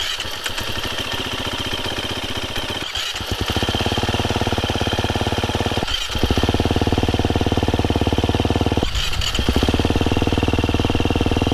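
KTM 350 EXC-F's single-cylinder four-stroke dirt bike engine running steadily through its exhaust, in four short cuts of about three seconds each. Each cut is a little louder than the one before.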